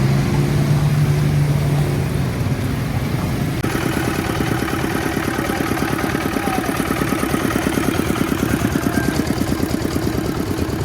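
A small engine running close by, with a steady low hum that gives way about three and a half seconds in to an even, rapid pulsing beat.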